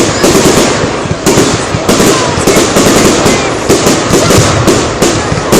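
Fireworks display in full barrage: a rapid, unbroken volley of loud bangs and crackles, several a second.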